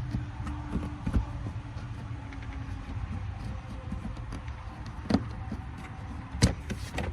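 Sharp clicks and knocks from handling the plastic access panel of a portable generator as it is turned and opened, a handful of separate clicks with the loudest near the end, over a low steady rumble.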